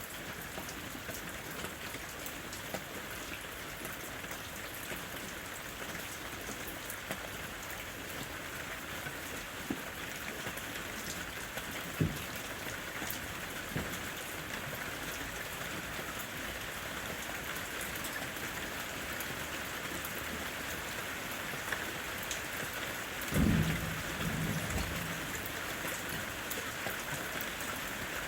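Steady rain falling in a forest, with occasional louder single drips. Near the end, a brief low rumble of thunder rises over the rain.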